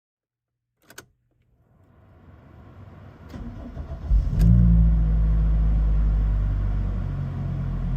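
A car engine starting about four seconds in and then running at a steady idle, after a click and a low rumble that builds up.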